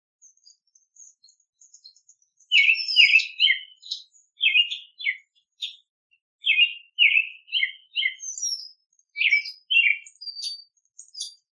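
Small songbirds chirping and calling over faint high twittering. A run of loud, repeated chirps starts about two and a half seconds in and goes on in short groups with brief pauses.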